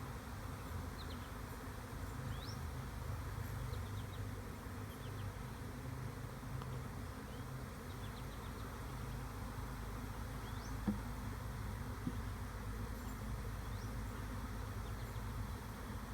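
A honeybee swarm buzzing steadily, a mass of bees in the air around a nuc box, with two small knocks about eleven and twelve seconds in. The bees are coming back out of the box, which the beekeeper takes as a sign that the queen is not inside.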